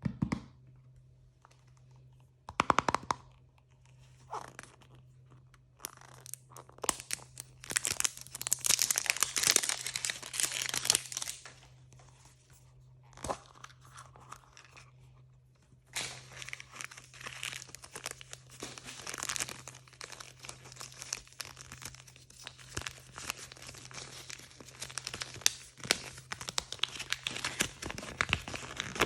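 Blind-bag packaging being torn open and crinkled by hand: a few sharp clicks at first, a burst of crackly tearing a quarter of the way in, then steady crinkling and rustling from about halfway through.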